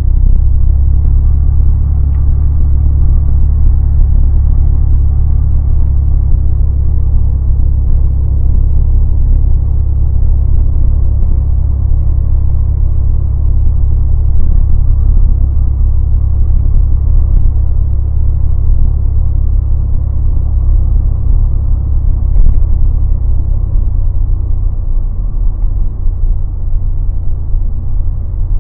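1990 Ford F-150 pickup driving, heard from inside the cab: a steady, loud low rumble of engine and road, easing somewhat near the end.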